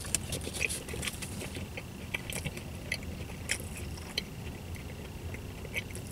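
A person chewing a bite of a chicken club sandwich, with irregular soft clicks and smacks of the mouth.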